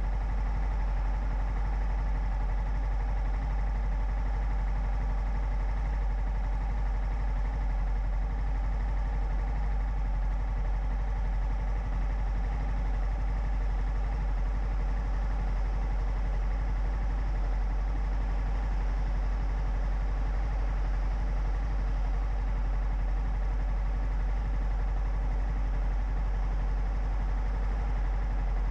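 Honda CB300F single-cylinder motorcycle engine idling steadily while stopped.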